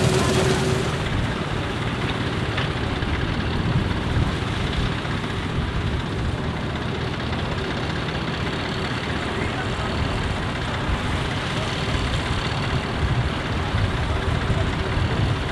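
Claas Huckepack combine running steadily, its engine and machinery giving a constant low hum.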